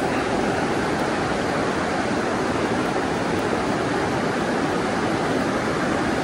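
Creek water rushing steadily, an even loud hiss with no breaks.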